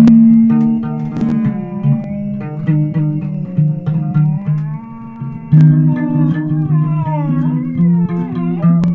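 Electric bass and guitar playing a loose, improvised jam of held low notes. About halfway through, a higher melody line comes in that bends and wavers in pitch.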